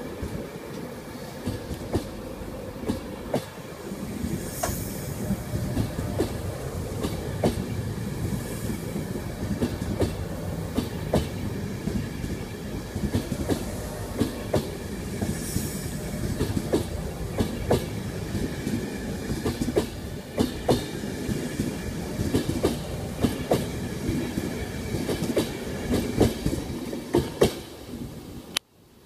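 The Mark 4 coaches of an InterCity 225 train roll past slowly, their wheels clacking over rail joints and pointwork in an uneven rhythm above a steady rumble, with a faint steady whine. The sound cuts off suddenly just before the end.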